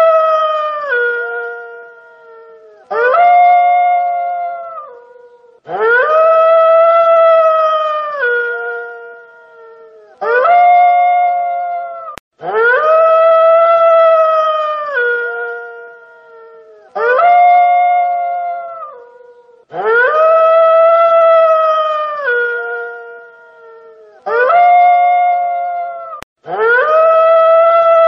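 Wolf howling over and over, long howls of about four seconds alternating with shorter ones of about two, each held on one steady pitch and dropping at the end. The howls repeat identically, as a looped recording does.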